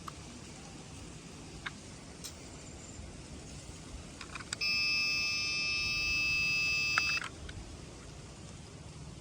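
A few light clicks, then a steady electronic beep tone from an RC toy tractor, held for about two and a half seconds before cutting off abruptly.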